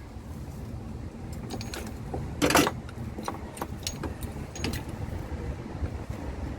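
Scattered clicks and knocks of motorcycle engine parts being handled, with one louder scraping rattle about two and a half seconds in, over a low steady rumble.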